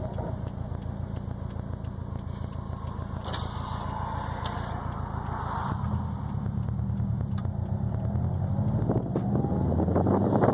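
2020 Subaru WRX STI's turbocharged 2.5-litre flat-four engine running through an ETS quiet catback exhaust with a resonated mid-pipe, while cruising. The engine note changes about halfway through and grows louder toward the end.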